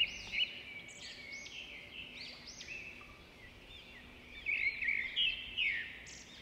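Birds chirping in the background: many short, high chirps that rise and fall, coming in quick overlapping runs, a little louder about two thirds of the way through, over a faint steady hum.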